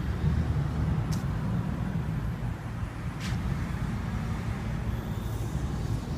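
Steady low rumble of outdoor background noise, like distant traffic or wind on the microphone, with two faint, brief high ticks about a second and about three seconds in.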